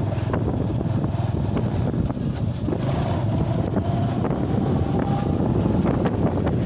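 Steady rumbling wind noise on the microphone, with a few faint ticks scattered through it.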